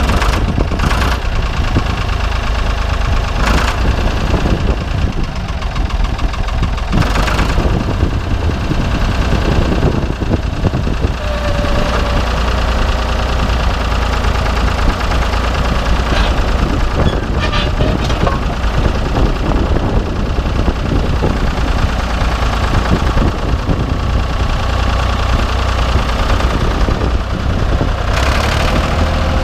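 A Ford 4500 backhoe loader's 3-litre three-cylinder diesel engine running steadily, with a low throb and a few brief clatters along the way.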